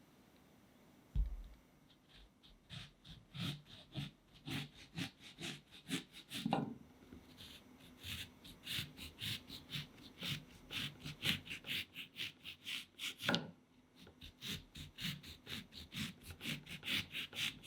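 Knife slicing an orange thinly on a wooden cutting board, in quick repeated sawing strokes about three a second, with a thump about a second in and two short breaks between runs of strokes.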